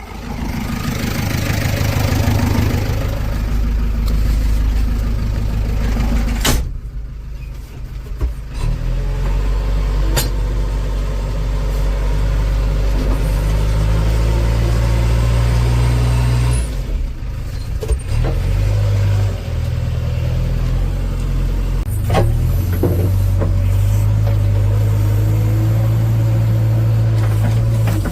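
Heavy diesel machinery running: the engines of a tractor and a JCB backhoe loader, a low, steady hum that changes abruptly several times. It gets louder and fuller from about eight seconds in.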